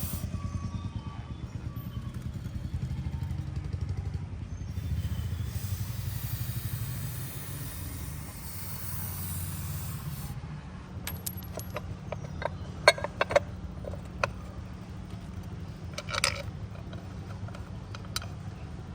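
Steady low rumble of a running vehicle, with a string of sharp clicks and knocks in the second half.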